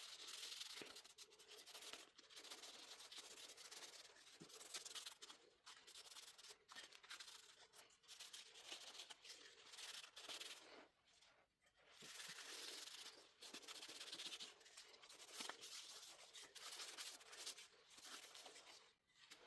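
Faint rubbing of weathered oak stain being wiped onto pallet-wood coasters, an applicator scrubbing over the wood in continuous strokes with a short break about eleven seconds in.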